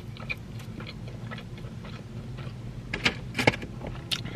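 Close-miked chewing of a ketchup-dipped corn dog: soft, wet mouth clicks throughout, with a few sharper clicks about three seconds in.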